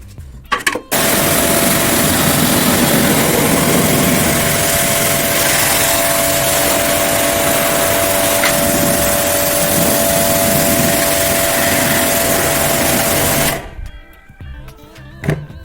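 Pressure washer running and spraying water, a loud steady hiss with a steady motor whine. It starts about a second in and cuts off suddenly near the end.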